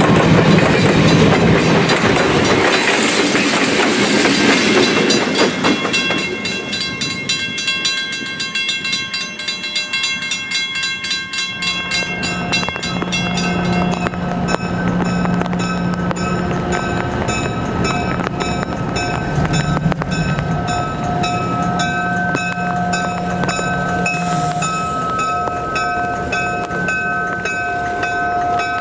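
Train hauled by EMD GP9 diesel locomotives running past, loud at first and then easing off to a fast, steady clatter of wheels over the rail joints. From about twelve seconds in, steady high ringing tones sound over the passing cars.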